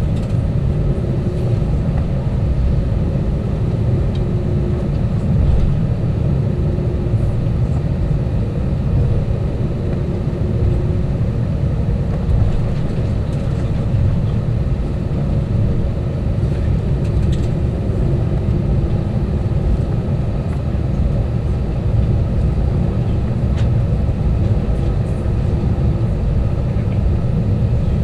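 Steady low rumble of an Airbus A320's engines and airflow heard inside the passenger cabin, with a faint hum running on and off above it.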